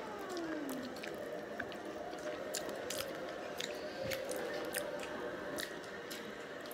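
Close-up eating sounds: wet, squishy chewing and lip smacking with many small sharp mouth clicks as braised oxtail is bitten off the bone and chewed. A brief falling tone sounds in the first second.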